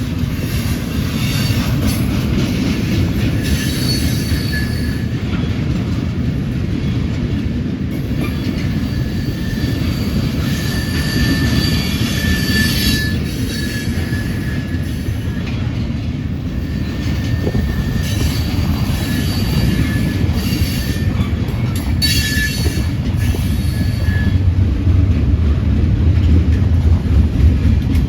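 Freight train rolling past close by, its cars giving a steady heavy rumble, with wheels squealing on the rails in short high-pitched stretches that come and go.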